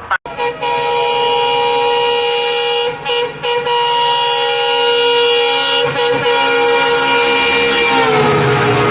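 EMD diesel locomotive's multi-tone air horn blown in one long blast, broken briefly a few times about three and six seconds in. Its pitch drops slightly near the end as the locomotive passes.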